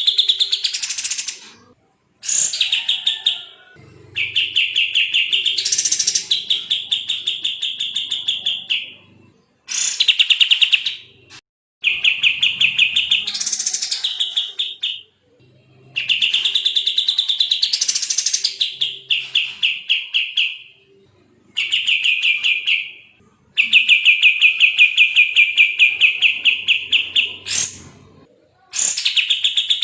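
Kapas tembak songbird singing fast strings of rapidly repeated sharp notes, the tight, rapid-fire song ('tembak') that bird keepers call gacor. The runs last one to five seconds each, with short pauses between them.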